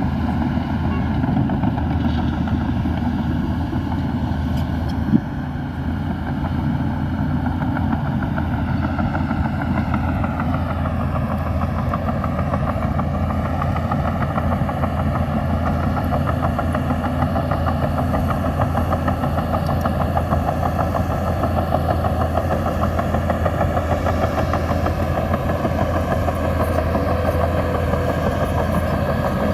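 Heavy diesel engine of a Shantui DH17C2 bulldozer running steadily under work, with a single sharp knock about five seconds in. The engine note drops slightly about ten seconds in and then holds.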